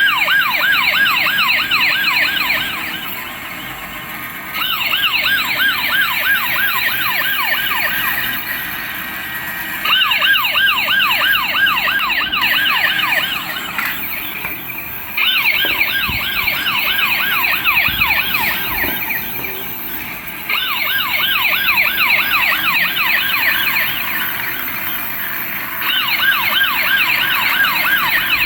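Electronic toy police car siren sounding a fast yelp, rising and falling about three or four times a second, in loud bursts of a few seconds broken by quieter stretches.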